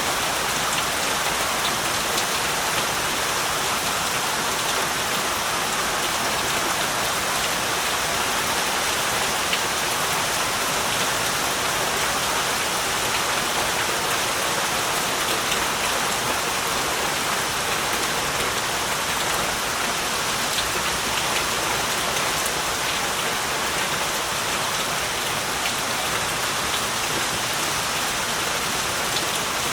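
Heavy rain falling steadily, a dense even hiss of drops with fine scattered patter and no change in strength.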